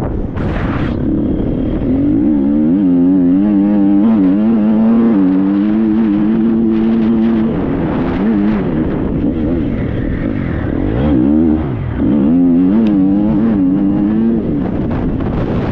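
Triumph 250 motocross bike's four-stroke engine under a rider, revving up and down again and again as the throttle is worked, with a short drop in revs about halfway through and again about three quarters of the way in.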